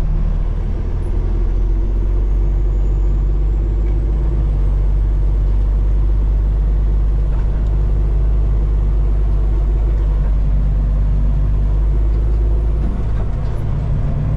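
Peterbilt 389 semi truck's diesel engine running at low speed as the truck rolls through a parking lot, a steady low drone heard from inside the cab. The low engine note drops off about a second before the end.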